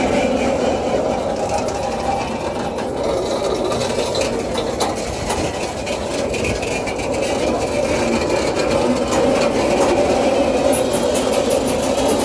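Freight wagons loaded with shipping containers rolling past: a steady rumble and clatter of steel wheels on the rails, with a constant ringing tone. Fast, light ticking joins in near the end.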